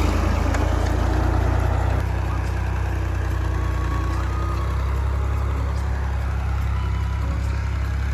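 A 1992 '480' model tractor's diesel engine running steadily at low revs, a little louder for the first two seconds and then settling.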